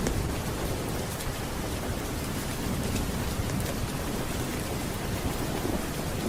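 Steady heavy rain with a low rumble of thunder underneath, and a few faint sharp crackles.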